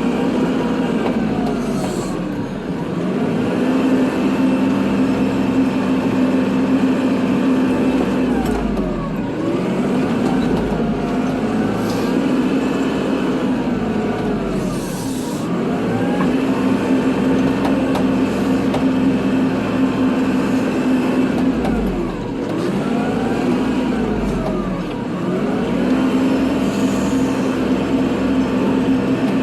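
Kubota tractor's diesel engine running steadily while plowing snow, with a whine that sinks and climbs again about every six or seven seconds as the machine slows, changes direction and picks up speed.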